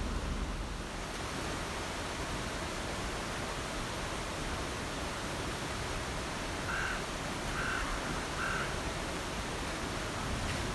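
Steady rushing water noise. About seven seconds in, a bird calls three short, evenly spaced notes over it.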